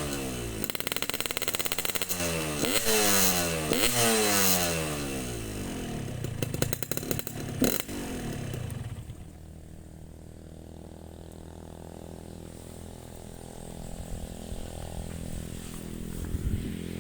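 Yamaha RX-King's single-cylinder two-stroke engine, set up for a deep 'ngorok' (snoring) exhaust note, revved in two quick throttle blips that fall back, then idling steadily and more quietly from about halfway through. A single sharp click sounds about halfway through.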